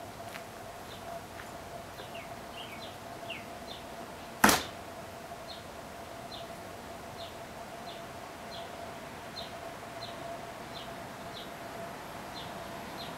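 A small bird chirping: short high chirps repeated roughly once every second over a faint steady hum, with one sharp knock about four and a half seconds in.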